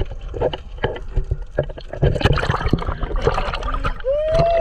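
Sea water splashing and sloshing close to the microphone, with many small irregular knocks and gurgles, as swimmers jump in. Near the end a short pitched tone rises and then falls.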